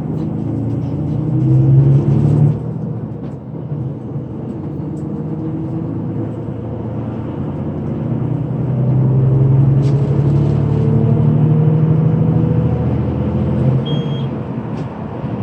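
Coach bus engine pulling under acceleration, its pitch climbing and then dropping as the automatic gearbox shifts up about two and a half seconds in. It climbs again through most of the rest and eases off with another upshift near the end.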